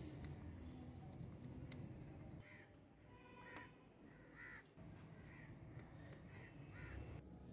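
A bird calling in the background: about six short calls roughly a second apart, beginning a little over two seconds in, faint over a low steady hum.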